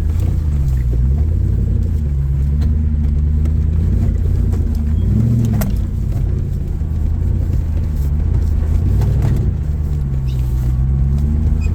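Jeep engine running as it crawls along a rough trail, heard from inside the vehicle, its pitch rising and falling with the throttle, with a few sharp knocks partway through.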